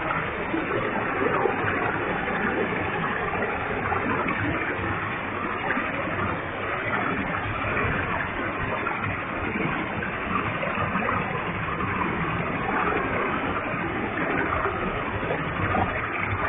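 Waterfall with a heavy flow of water pouring steadily: a constant, even rush of falling water with no changes.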